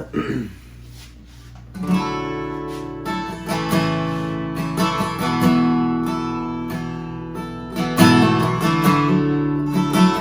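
Acoustic guitar strumming chords, starting about two seconds in, as the introduction to a worship song.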